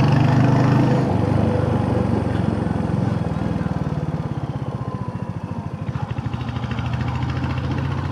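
Royal Enfield Hunter 350's single-cylinder engine running under way. Its revs drop after about a second, slowing near the middle to a beat where each firing can be heard, then pick up again from about six seconds in.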